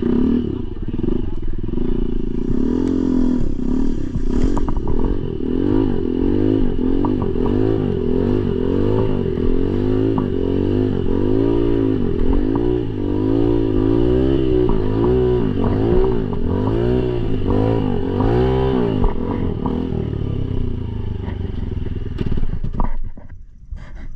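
Dirt bike engine revving hard, its pitch rising and falling over and over as the bike is pushed through a deep mud rut. Near the end the engine eases off.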